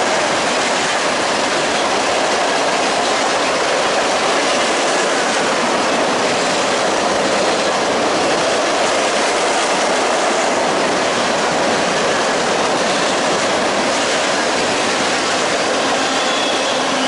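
Freight train cars rolling past on the rails: a steady, loud rush of steel wheels on track.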